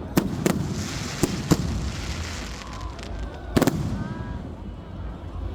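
Firecrackers going off in scattered single bangs, about five in all, the loudest a little past the middle, over a noisy crowd background.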